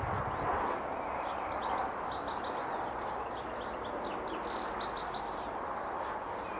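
Songbirds chirping and singing in quick runs of short high notes over a steady outdoor background hiss.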